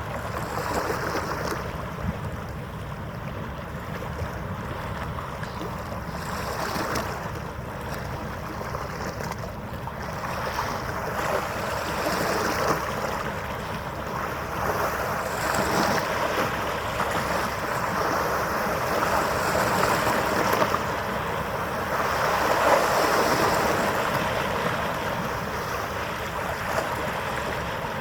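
Wind on the microphone and washing harbour water, a steady rush that swells twice and eases, with a faint steady hum underneath.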